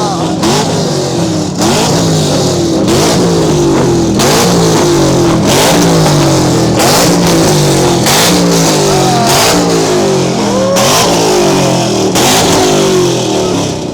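Loud car engine revved hard over and over, its pitch climbing and dropping in quick repeated cycles, with a higher squeal gliding up now and then.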